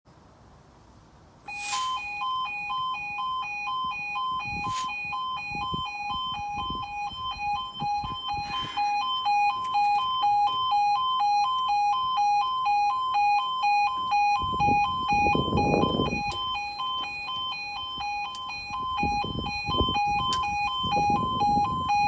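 Level crossing warning alarm starting up about a second and a half in and sounding a steady pulsing two-tone, the crossing's warning sequence beginning for an approaching train.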